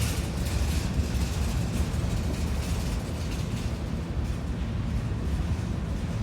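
Freight train of hopper cars rolling past: a steady low rumble of steel wheels on the rails, with faint irregular clicking.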